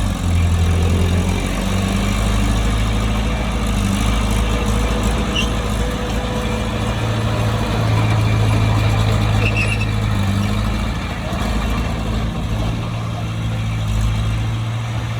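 Bulldozer's diesel engine running steadily, a low drone that rises and falls a little in level.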